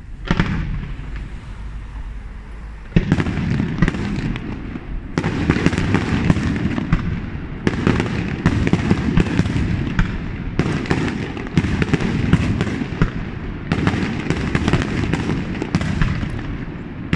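Aerial fireworks display: one shell burst just after the start, then from about three seconds in a dense, unbroken barrage of bursting shells and crackle.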